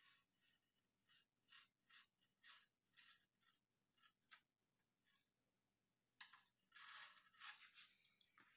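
Faint, short cutting strokes of a blade through sheet material, about two a second, then longer scraping strokes near the end as the cut-out piece is worked free.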